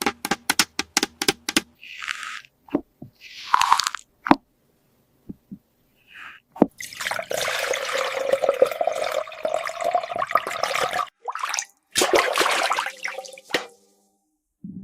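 Water pouring and splashing into a plastic toy aquarium tank, with a long steady pour in the middle and shorter splashes before and after. It opens with a quick run of about eight clicks.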